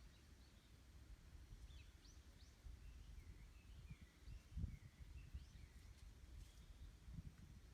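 Faint birdsong of short chirps, some rising and some dipping, scattered over a low wind rumble. A brief, louder low gust comes about halfway through.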